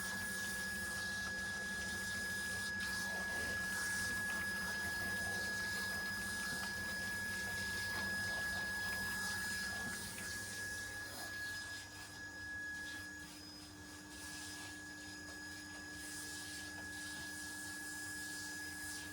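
A steady high-pitched machine whine over a low hum and a faint hiss. About halfway through the sound drops a little and a lower steady hum comes in.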